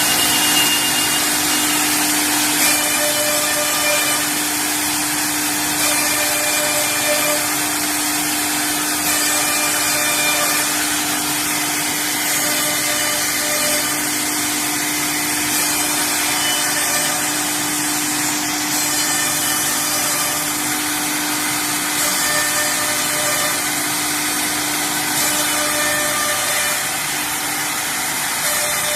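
Four-head CNC router running, its spindles cutting with a steady whine over a loud hiss; the whine fades out near the end.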